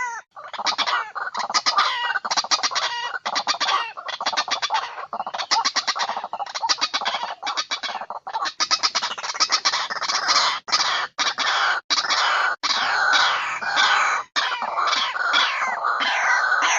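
Birds calling loudly in fast, repeated, fowl-like clucks and squawks, cut off by several abrupt short gaps.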